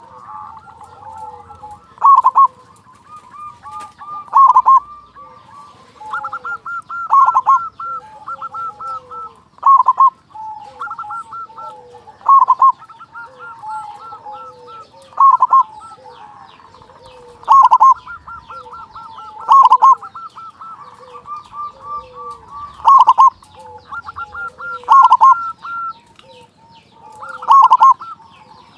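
Zebra doves (perkutut) cooing: a loud staccato coo phrase repeats every two to three seconds, with softer rapid cooing and trills in between.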